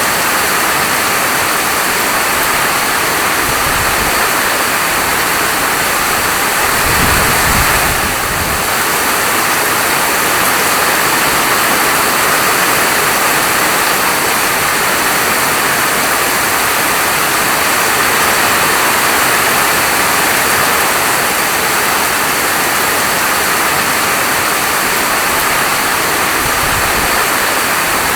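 Heavy rain falling steadily, a dense even hiss, with brief low rumbles about four and seven seconds in.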